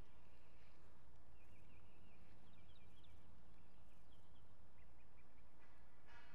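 Outdoor ambience: small birds chirping in short calls over a steady low background rumble, with a slightly louder call near the end.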